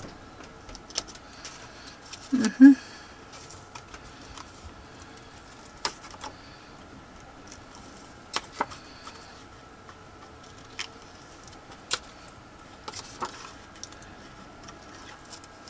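Small craft scissors snipping and paper being handled: scattered sharp clicks a second or more apart, the loudest about two and a half seconds in, over a faint steady hum.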